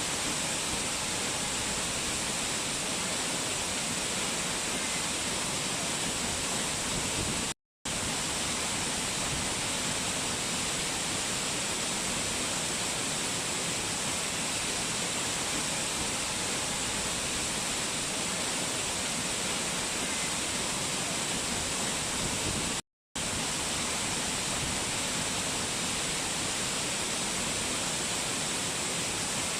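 Rushing water running in a steady, even hiss. It is cut twice by a brief total dropout to silence, once about a quarter of the way in and again about three quarters of the way through.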